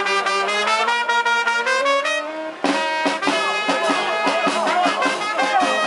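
Brass band music with trumpets and trombones: held chords over a rising bass line, a short break about two and a half seconds in, then a livelier passage with a steady beat in the bass.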